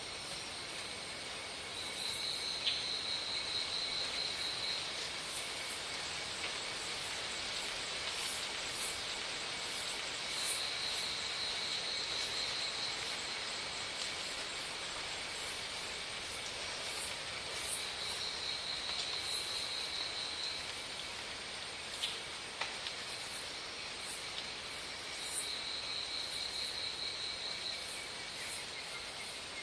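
Insects calling: a pulsed, high trill lasting about three seconds, repeating four times about eight seconds apart, over a steady high insect hum.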